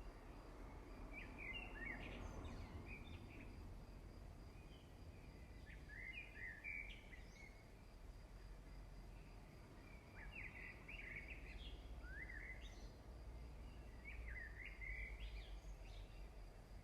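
Faint birdsong: a small bird sings short chirping phrases every two seconds or so over a low background hum.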